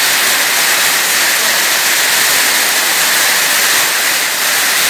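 Heavy rain pouring down in a storm, a loud, even hiss of downpour on concrete and metal.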